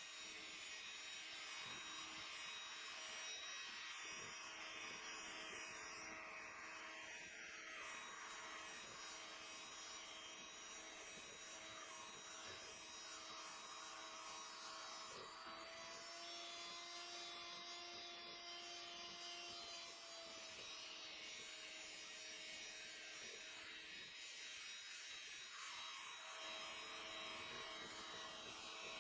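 Small electric motor running steadily with a faint hum, its pitch rising slightly for a few seconds past the middle, consistent with an electric hand mixer whipping egg whites into meringue.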